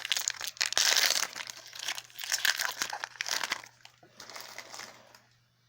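Foil booster pack wrapper crinkling as it is handled. The crinkling is loud and busy for about three and a half seconds, grows fainter, and stops a little after five seconds.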